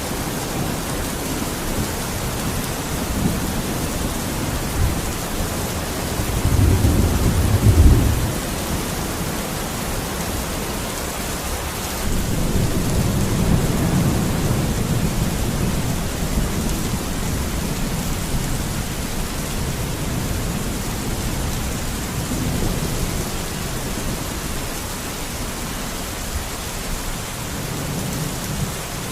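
Steady heavy rain with rolling thunder: a deep rumble swells and peaks about seven seconds in, and a longer, gentler roll follows from about twelve to sixteen seconds.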